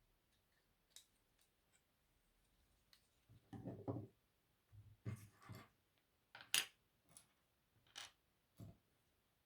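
Plastic Lego pieces being handled and pressed together on a tabletop: scattered sharp clicks and short clatters, the sharpest about two-thirds of the way through.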